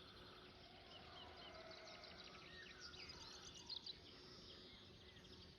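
Faint outdoor birdsong: many small birds chirping and twittering at once over a low background hiss.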